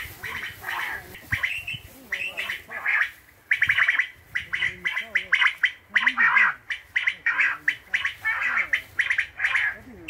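Recorded bird calls playing from a poacher's illegal electronic bird lure, a loudspeaker caller left running at night to draw in migrating birds. Rapid, harsh chirping phrases repeat over and over, growing louder about three and a half seconds in.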